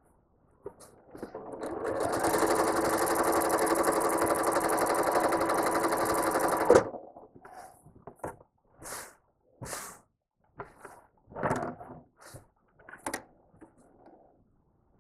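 Home sewing machine stitching at high speed for ruler quilting: it speeds up about a second in, runs steadily for about five seconds, then stops abruptly with a click. After it stops come scattered short rustles and clicks.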